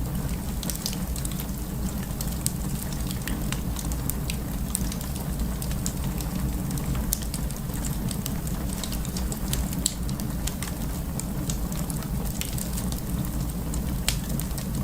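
Burning wood crackling, with frequent irregular sharp pops and snaps over a steady low rumble.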